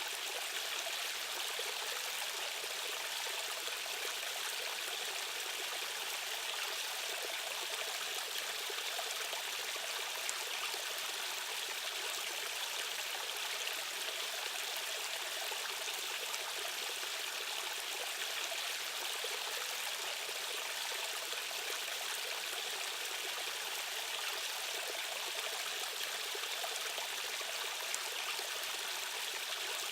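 Rushing stream water flowing steadily over rocks, an even hiss and babble with no breaks.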